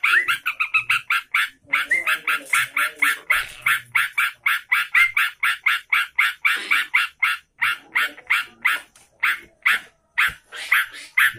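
A trucukan (sooty-headed bulbul) calling without pause in a fast string of short, sharp notes, about five a second, with a few notes sliding briefly upward.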